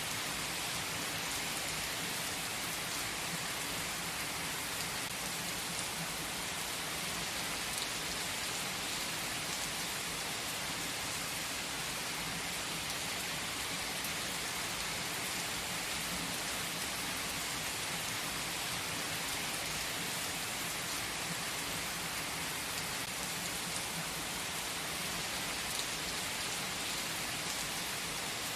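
Steady, even rain falling, a constant hiss with faint scattered drop ticks.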